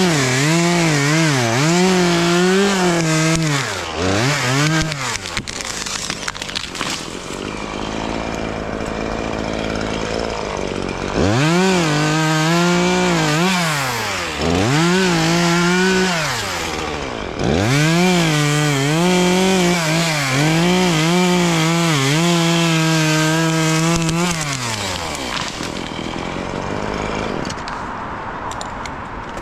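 Petrol chainsaw cutting wood, its engine revving up and down in repeated surges at full throttle, in three spells with a quieter stretch between them, then easing off near the end.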